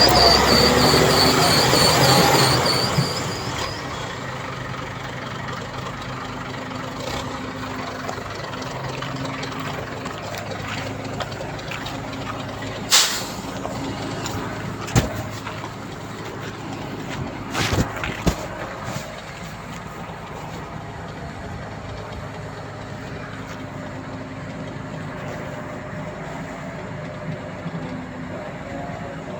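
Diesel heavy earthmoving machinery running steadily. A loud high squealing sounds for the first three seconds, and a few sharp metallic knocks come around the middle.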